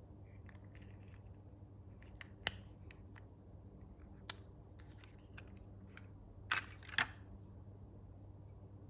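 Hands handling toy packaging: scattered light clicks and scratchy rustles, with two louder scrapes close together about six and a half and seven seconds in, over a faint steady low hum.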